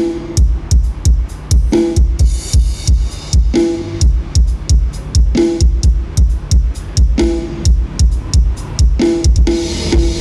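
Dance music with a fast, heavy kick-drum beat played loud through an outdoor PA system of 15-inch order-6 plywood subwoofer cabinets with TRUM cast-frame drivers, being tested for how tight and far-reaching the bass is. A short melodic phrase repeats about every two seconds over the bass.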